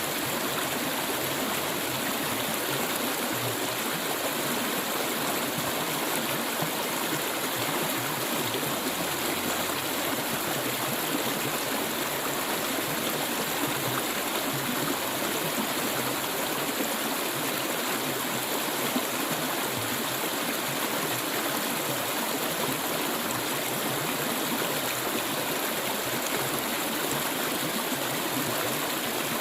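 Clear stream water flowing steadily, an even rushing hiss with no separate splashes or drops standing out.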